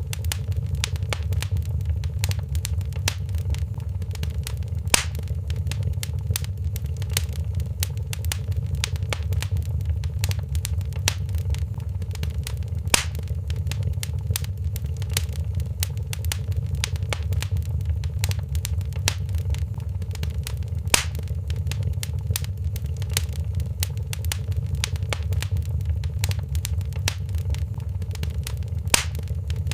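Wood fire crackling in a fireplace: a constant patter of small crackles with a sharper pop about every eight seconds, over a steady low rumble.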